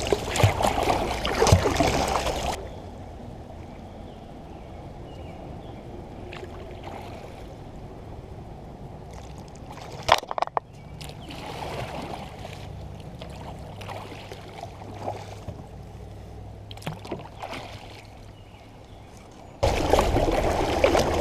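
Water sloshing and trickling around a kayak as it is paddled, louder for the first couple of seconds and again near the end, quieter in between, with a sharp knock about ten seconds in.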